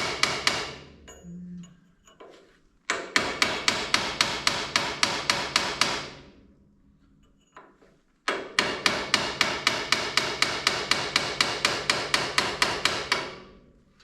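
A hammer driving a blunt steel chisel against a rusted drag-link ball joint in three quick runs of rapid blows, about five a second, with a metallic ring. The seized joint is not yet coming loose.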